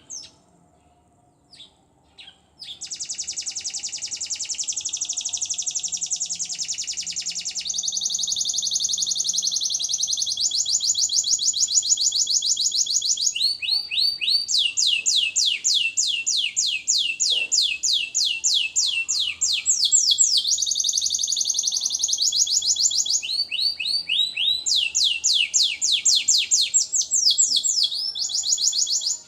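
An F1 Lizard × local canary cross singing its morning warm-up song. Two short chirps come first, then a long run of rapid, high-pitched trills of repeated notes that change to a new trill pattern every few seconds.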